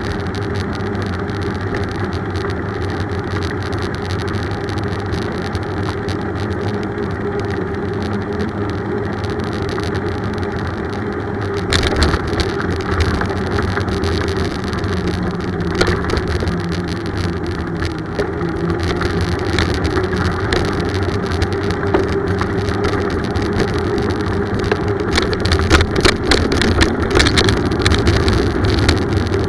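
Continuous rumble of a bicycle ride along a road, tyre and wind noise. It turns rougher from about twelve seconds in, with frequent short knocks and rattles.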